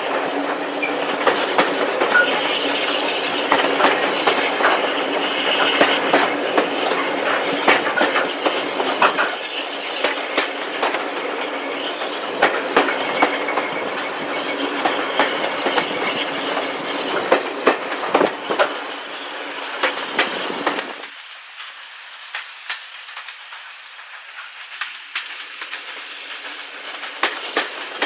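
Train running along the track: a steady rumble with many sharp clicks of wheels over rail joints. About 21 seconds in the sound drops off markedly and carries on quieter.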